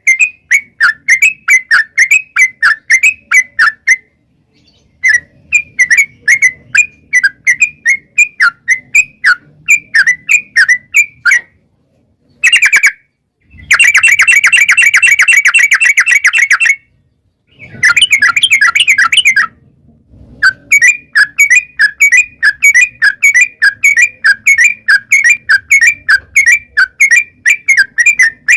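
Yellow-vented bulbul (trucuk) singing in long, rapid runs of bubbly repeated notes, broken by a few short pauses, with a denser, faster burst of notes in the middle.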